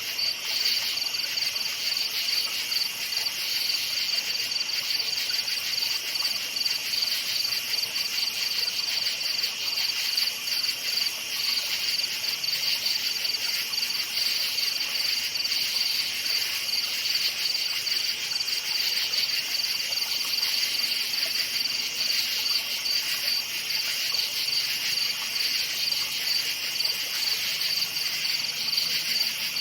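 Night chorus of crickets chirping without a break, a steady high-pitched trill.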